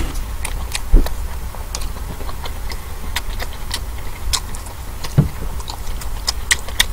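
Close-miked chewing of a mouthful of king black tiger prawn: scattered wet mouth clicks and smacks, with a dull thump about a second in, over a low steady hum.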